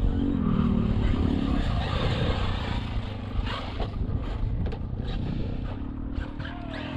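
Traxxas brushless electric RC monster truck driving over rough ground. Its motor and drivetrain whine rises and falls with the throttle, over a low rumble, with a few short knocks.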